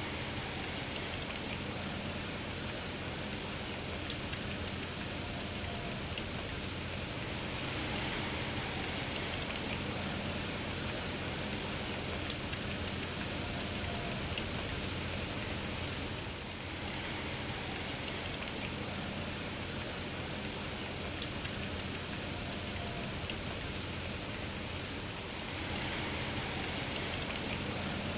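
Steady rain falling, an even hiss with three sharp, loud taps spaced about eight or nine seconds apart.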